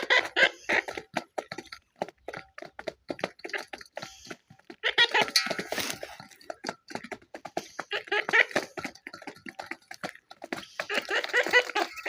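Birds chattering in several bursts of rapid calls, with many short clicks and taps between the bursts.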